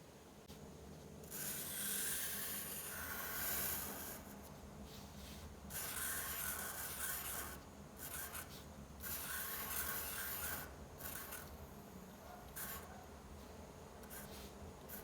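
A pen or marker rubbing on paper in a series of drawing strokes, each a scratchy pass of one to three seconds with short pauses between.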